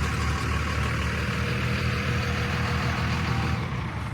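A vehicle engine running at idle, a steady low rumble that drops away about three and a half seconds in.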